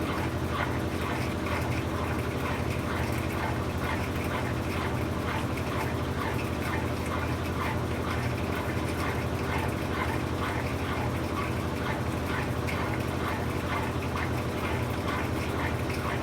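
Brastemp 17 kg washing machine running late in its quick cycle: a steady low motor hum with a dense, irregular patter of short higher-pitched sounds over it.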